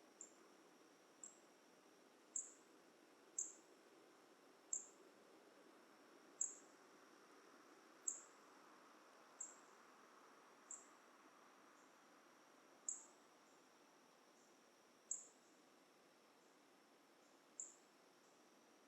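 Dusk forest ambience: a steady, thin, high insect drone, with a short, very high chirp repeated every one to two seconds.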